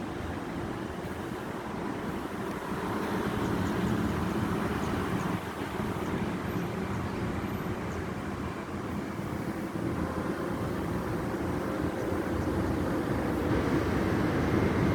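A vehicle on the move: steady engine and road rumble with a noisy rush, slowly growing louder.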